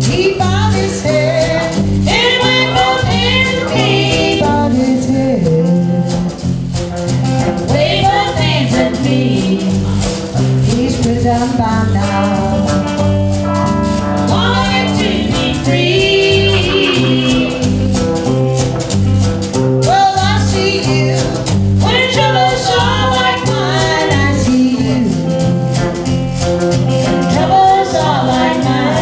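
Live band playing a song, with singing over steady chords and bass.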